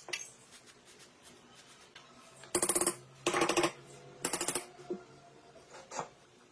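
Workshop sounds of motorcycle parts being worked on: scattered clicks and taps, and three short bursts of rapid rattling noise, each under half a second, around the middle.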